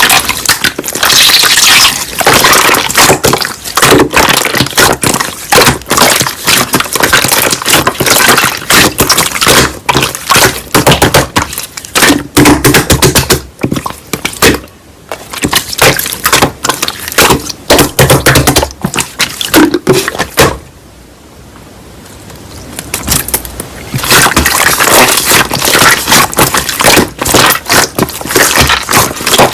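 Slime being squished and pressed by hand, making fast, dense crackling and popping clicks, with a quieter spell about two-thirds of the way through.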